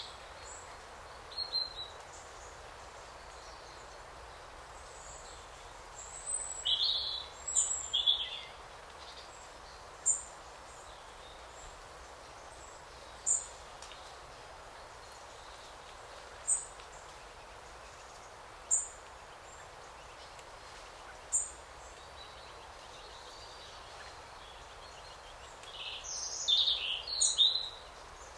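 Forest birds singing over a steady soft background hiss: a few short bursts of song near the start, in the middle and near the end, with a single short high call repeating every two to three seconds in between.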